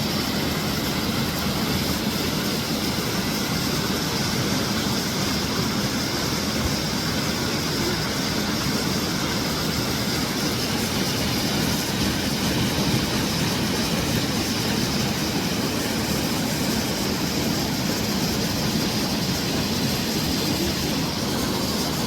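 Waterfall: the steady rush of falling water, a loud even roar with no breaks.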